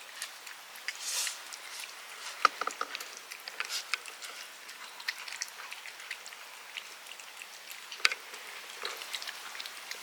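Cats moving about and pawing at the floor: scattered light taps, clicks and scratching, with a sharper knock about two and a half seconds in and another about eight seconds in.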